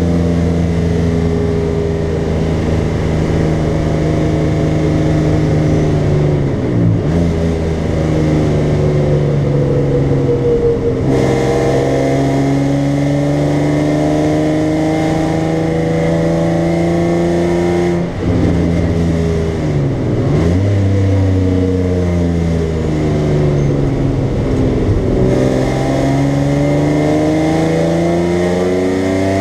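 BMW 325i's straight-six engine heard from inside the cabin, driven hard on track: its note climbs steadily under acceleration and breaks off sharply several times as the driver changes gear and lifts for corners.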